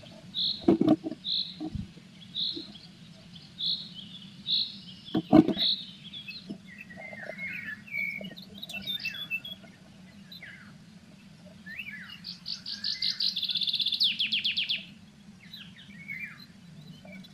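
Small songbirds calling and singing: a run of evenly spaced short high notes, then scattered chirps and a rapid trill of many quick notes lasting about three seconds, starting about 12 seconds in. A few dull knocks are heard in the first six seconds.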